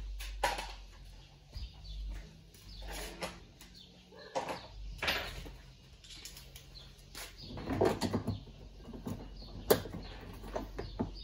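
Irregular knocks, clicks and scrapes of washing-machine parts and tools being handled during disassembly, with a denser run of clatter in the second half.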